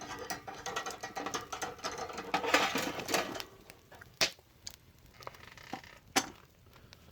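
Firewood fire crackling: a dense run of rapid crackles for the first three seconds or so, then scattered sharp pops, the loudest about four and six seconds in.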